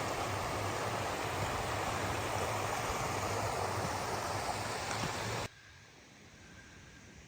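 Steady rushing of flowing water, like a stream, that cuts off abruptly about five seconds in, leaving a much quieter background.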